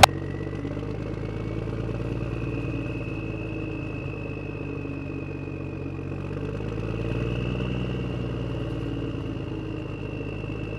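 A motor running steadily: a low hum with a constant high whine above it, swelling slightly about seven seconds in.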